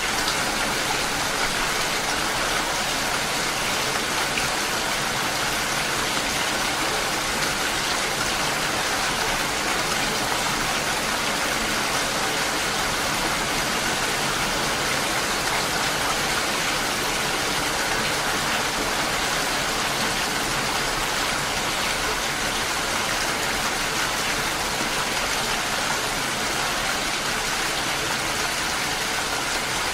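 Steady rain, an even rushing hiss that holds constant throughout.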